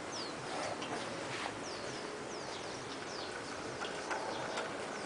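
Birds chirping: short, high, falling chirps repeated every half second or so over a steady background hiss.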